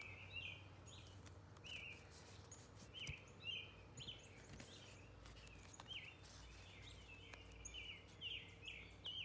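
Faint, short chirps from a small bird, repeated every half second or so, over a quiet background with a low steady hum.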